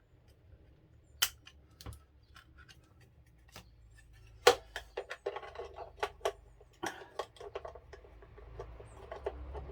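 Plastic RC-car kit parts being handled and a cover fitted: a string of sharp plastic clicks and small knocks, sparse at first, then coming thick and fast after the loudest click about four and a half seconds in.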